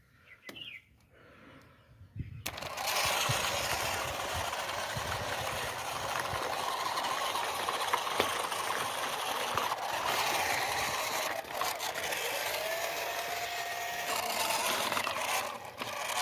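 Small DC gear motor of a homemade matchbox toy tractor switching on about two and a half seconds in and running steadily, a busy mechanical whirr. A few light handling clicks come before it starts.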